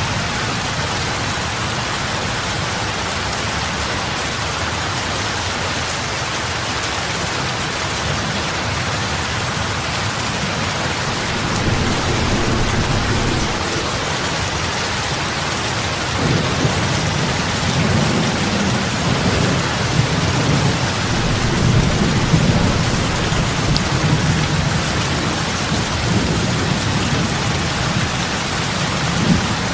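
Heavy rain falling on lake water, a steady dense hiss of drops splashing on the surface. A low rumble swells briefly about twelve seconds in and again through the second half.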